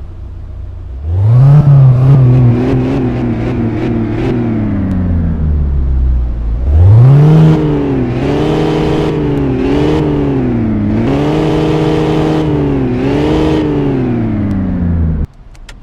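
BMW E39 M5's 4.9-litre S62 V8, swapped into an E34, running at a low rumble and then revving up sharply, with a few sharp cracks in the first rise, before dropping back. It then revs up again and holds with several brief dips in pitch, and the sound cuts off suddenly near the end.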